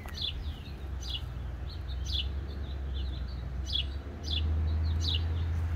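A songbird chirping repeatedly, short high chirps falling in pitch at about one a second, over a low steady rumble that grows louder about four seconds in.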